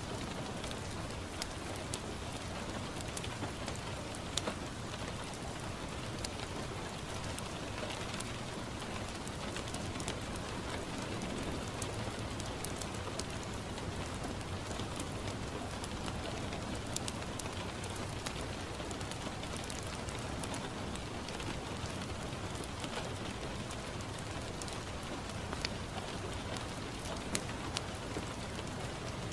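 Steady rain falling on a window, with scattered sharp clicks and ticks through the rain.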